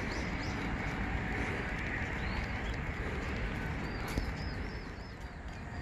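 Wild mountain birds chirping in quick runs of short repeated notes, clearest about four seconds in, over a steady outdoor hiss.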